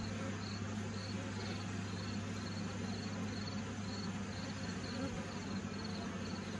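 Honeybees buzzing steadily in a dense swarm around an open, thriving horizontal hive, a continuous low hum.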